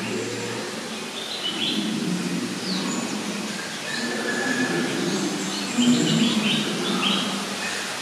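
Birds chirping and calling in a zoo's tropical free-flight hall, with short high chirps, a falling whistle and a held note, the calls busiest in the second half, over a steady low background noise.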